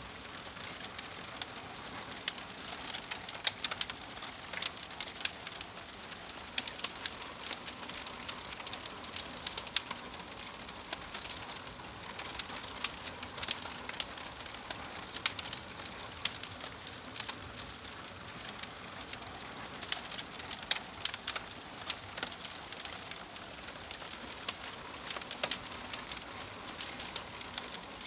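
Fire crackling: a steady hiss with frequent sharp pops and snaps scattered irregularly throughout.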